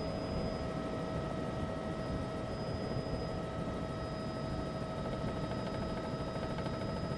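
Steady cabin noise of a news helicopter: an even rush of engine and rotor noise with a steady high whine.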